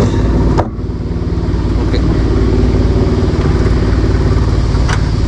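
Engine of a small Yamaha fishing boat running steadily. The level drops abruptly about half a second in, then the engine keeps running evenly.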